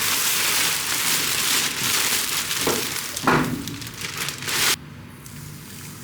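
Plastic packaging rustling and crinkling as it is handled, a continuous noisy rustle with a couple of soft knocks partway through, stopping abruptly almost five seconds in.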